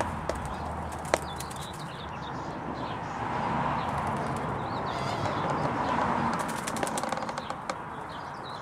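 Small birds chirping in short high twitters over a steady background noise, with a few sharp clicks about a second in and a cluster near the end.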